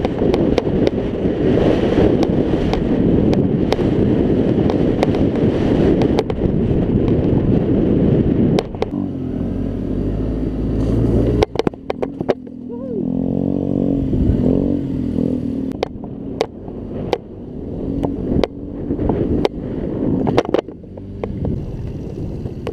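Scooter engine running under rushing wind noise for the first eight seconds or so, then heard clearly: it runs steadily for a few seconds, then revs up and down repeatedly, with scattered sharp clicks.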